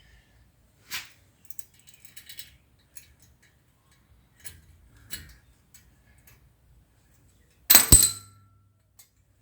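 Hand tools and small steel parts clinking while the upper ball joint nut is fitted on a steering knuckle: light scattered ticks and clinks, then one loud, sharp metallic clang with a brief ring about eight seconds in.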